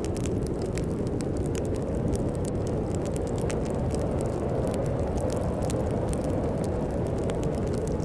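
Steady low rush of storm wind with a wood fire crackling over it in many small, sharp pops.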